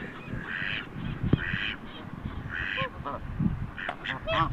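Domestic ducks and geese calling: three raspy, hoarse calls in the first three seconds, then a quick run of short honks near the end.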